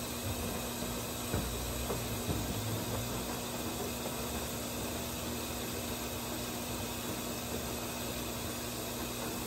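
Brastemp 17 kg washing machine filling with water: a steady hiss of water running into the drum through the inlet, with a faint steady hum and a few low knocks about one to two seconds in.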